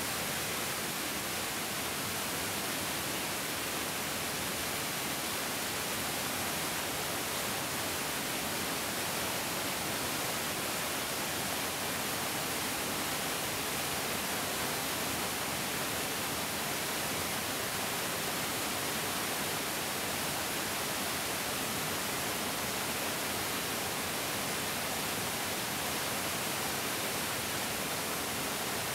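Mountain stream flowing, a steady even rush of water with no breaks or separate splashes.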